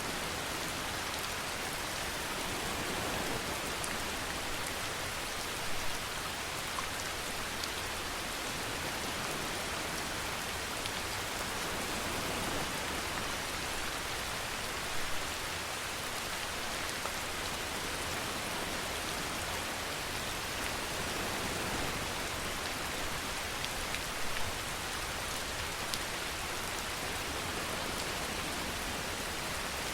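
Steady rain falling, an even hiss, with a few brief louder spatters of drops about six, fifteen and twenty-four seconds in.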